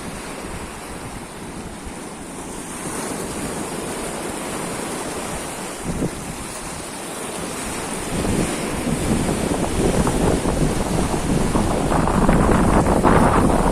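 Baltic Sea waves washing in, with wind buffeting the microphone; the sound grows louder from about eight seconds in.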